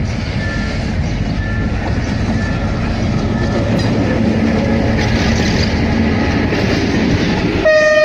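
Diesel locomotive passing close at speed, then passenger coaches rolling by with steady wheel-and-rail rumble and clatter. A short beep repeats about once a second during the first few seconds, and a loud steady train horn starts near the end.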